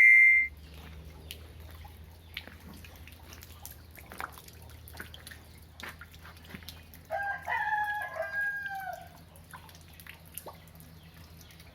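A rooster crows once, about seven seconds in, a bending call of roughly two seconds. Scattered drips of rainwater and a low steady hum run underneath.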